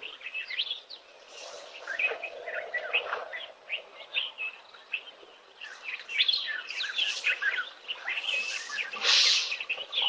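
Wild birds chirping and calling in a busy chorus of short, overlapping notes. A brief hissing rush of noise stands out near the end.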